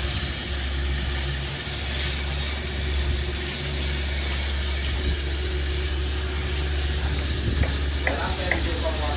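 A machine running steadily, a low hum under an even hiss, while the coralina stone deck is worked. Voices come in near the end.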